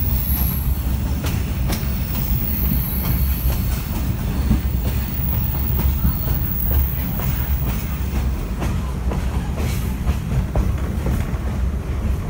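Passenger railcar running along the track, heard from inside the coach: a steady low rumble with short clicks from the wheels over the rails, which come more often in the second half, and thin high wheel squeals three times in the first seven seconds.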